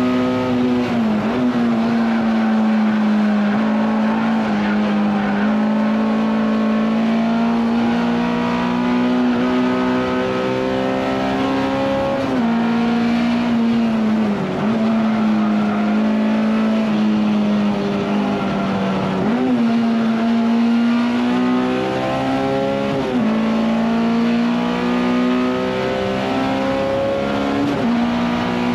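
Honda S2000 race car's four-cylinder VTEC engine heard from inside the cabin, running hard at high revs on a lap. The pitch holds mostly steady, with brief dips about six times as the driver shifts or lifts.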